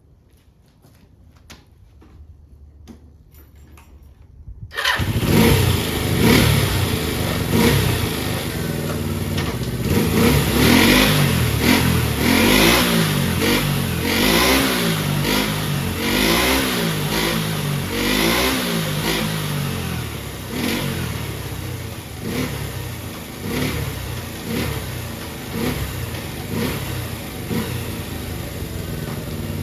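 Kawasaki Z250FT motorcycle engine with an aftermarket muffler: a few faint clicks, then the engine starts about five seconds in and runs. It is revved in a run of throttle blips, about one a second, then settles toward idle with smaller blips.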